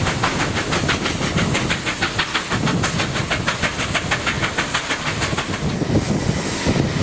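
Steam locomotive 3801 working under steam, its exhaust giving rapid, even beats, about five a second, over the rumble of the train. The beats fade out about six seconds in, leaving a steady hiss and rumble.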